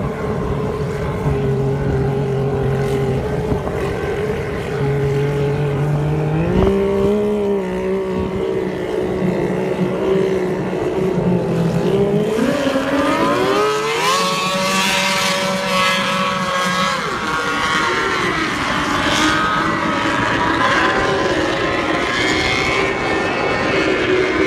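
Engines of vintage Switzer Wing raceboats running on the water. The pitch steps up about six seconds in, then climbs steeply as one boat accelerates, holds a higher pitch for a few seconds, and drops back.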